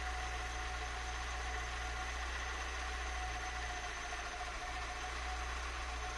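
Citroën BX's Douvrin 'suitcase' four-cylinder engine idling steadily with the radiator cap off, while air is bled out of the cooling system after a thermostat change.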